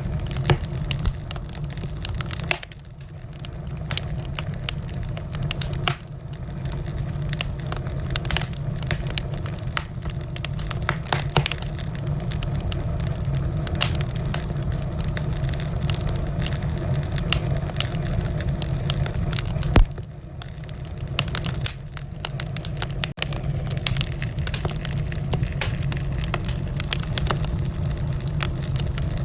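Wood fire in a fireplace crackling, with frequent sharp pops and snaps over a steady low rumble. One louder pop about two-thirds through.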